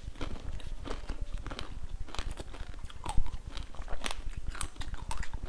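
Close-miked chewing and crunching of frozen chocolate balls: a steady run of irregular crackles and clicks, with sharper crunches about two, three and four seconds in.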